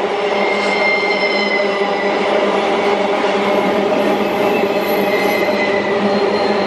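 Empty iron-ore freight train rolling past with a steady rumble and hum. Thin, high wheel squeals come and go over it.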